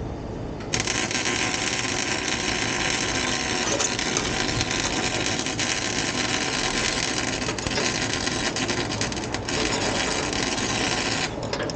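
MIG welder running a continuous bead on exhaust pipe, a steady crackling hiss that starts a moment in and cuts off near the end, after about ten seconds.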